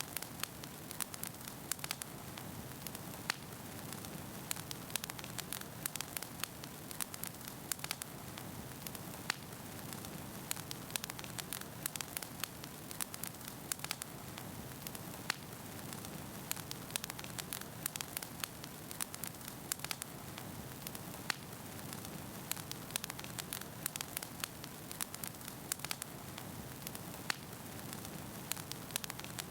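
Wood fire burning in a fireplace: a steady low rush of flames with frequent irregular crackles and pops of burning logs.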